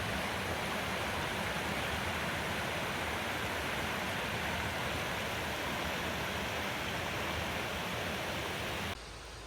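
Steady rushing of a waterfall, water falling heard from a lookout high above. The rush drops away abruptly about nine seconds in.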